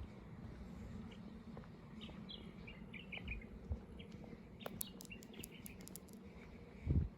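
Small birds chirping over a steady low hum, with a quick run of sharp clicks about five seconds in and a low thump near the end.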